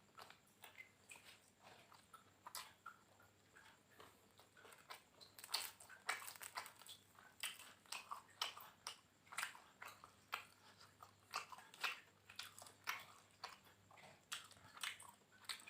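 A person chewing and biting crunchy food close to the microphone: a meal of fried catfish with raw vegetables. The crisp crunching is sparse at first and grows denser and louder from about five seconds in, in a rough chewing rhythm.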